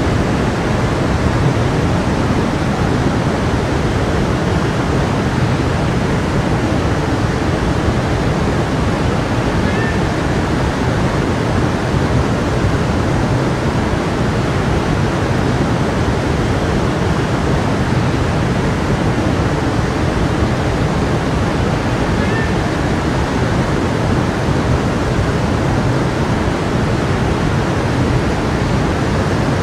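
Stream water flowing and rushing steadily, an even, unbroken wash of sound.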